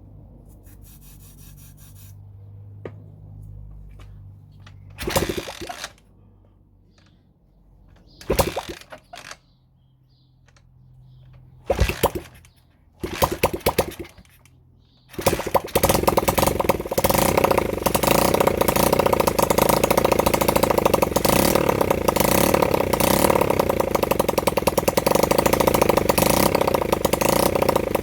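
Honda CB100N's single-cylinder four-stroke engine being started: several short bursts where it fires briefly and dies, then about 15 seconds in it catches and runs steadily with a fast, even beat. It is the bike's first run in over 20 years.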